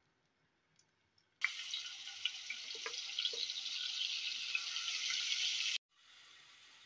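Finely chopped onion dropped into hot oil with cumin seeds in a wok: a sudden loud sizzle with scattered crackles starts about a second and a half in and runs for about four seconds. It cuts off abruptly, then a fainter, steady sizzle carries on.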